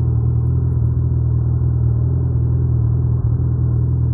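2019 Suzuki Hayabusa's inline-four engine running at a steady engine speed, with no revving.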